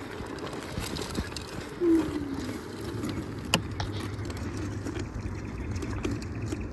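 Rumbling noise of a vehicle on the move, with a low steady hum, a short falling squeak about two seconds in and a sharp click a little later.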